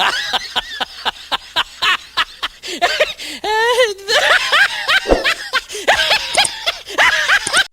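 A person laughing hard in quick repeated bursts, with a wavering, drawn-out stretch in the middle: a meme laugh sound effect.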